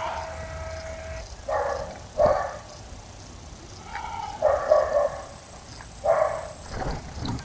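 A dog barking several times, in short separate barks a second or two apart.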